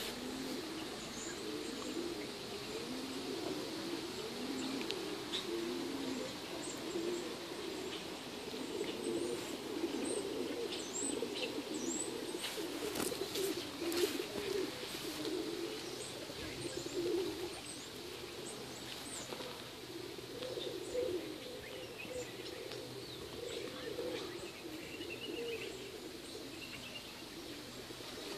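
Birds calling outdoors: low, wavering cooing-like notes that go on continuously, with scattered short high chirps. A few brief rustling noises come about halfway through.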